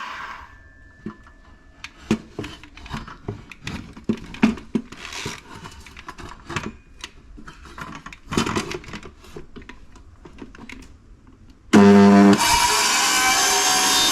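A power saw cutting plywood stops at the start. About ten seconds of scattered knocks and clatter from handling the wood and tool follow. Near the end the saw's motor starts abruptly with a brief hum and then runs loud and steady.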